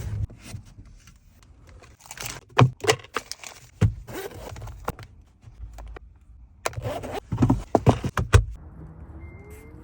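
Small hard items clicking, knocking and rattling as they are handled and packed, in two bursts of clatter. Near the end a short high electronic beep sounds twice and a low engine note slowly rises.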